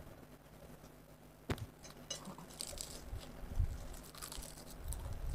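Crisp seaweed sheet crackling as a wrap of cheese ramen noodles is bitten into and chewed close to the microphone. A sharp crack about a second and a half in, then scattered crunching crackles.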